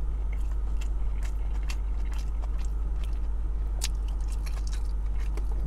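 A person chewing a mouthful of burger close to the microphone: irregular soft wet clicks and smacks of the mouth, over a steady low hum.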